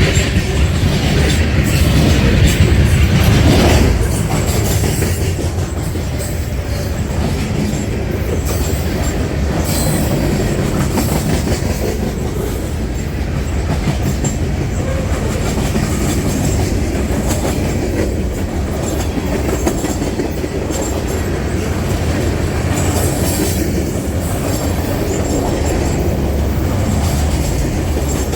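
Canadian National train rolling past close by, its cars running steadily over the rails, loudest in the first few seconds.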